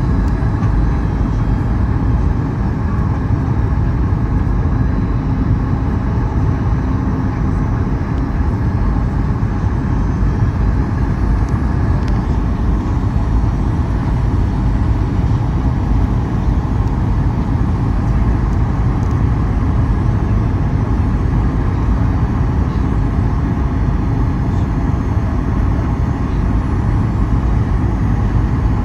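Steady cabin noise of a Boeing 737 MAX 8 airliner in flight: a low, even rumble of engines and airflow with a faint steady whine over it.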